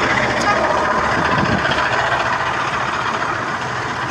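Street traffic noise with a vehicle engine idling, a steady low hum under a dense wash of noise.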